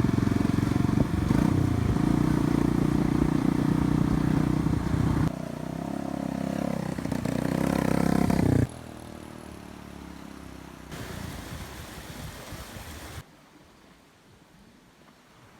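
Yamaha Byson motorcycle's single-cylinder engine through a free-flow aftermarket exhaust, running loud and deep for about five seconds. After an abrupt cut it revs up, pitch and loudness rising until about nine seconds in, then the sound cuts to a much fainter, noisy background that drops again near the end.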